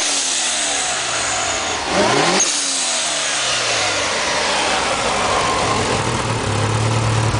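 Mitsubishi Lancer Evolution VIII's turbocharged 2.0-litre four-cylinder engine being revved: revs falling at first, a quick rev about two seconds in, then the revs dropping back and settling into a steady idle.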